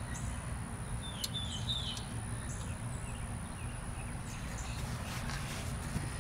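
Outdoor ambience: a small bird chirps a few quick falling notes about a second in, over a steady low rumble and a faint thin high tone.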